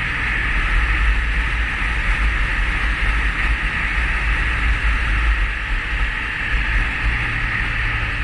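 Riding on a 2017 Honda CBR 500R: wind rushing and buffeting over the GoPro action camera's microphone, with the bike's parallel-twin engine running at a steady pitch underneath.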